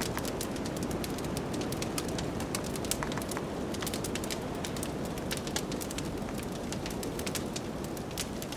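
Wood fire crackling with frequent sharp, irregular pops, over a steady low rush of blizzard wind.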